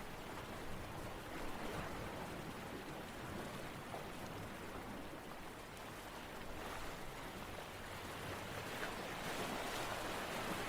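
A steady wash of water noise, swelling gently toward the end.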